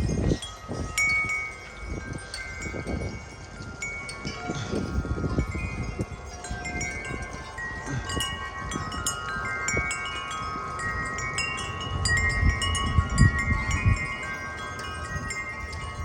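Metal-tube wind chime rung by the wind: many notes struck again and again and left ringing over each other, with no steady rhythm. Gusts of wind rumble on the microphone now and then.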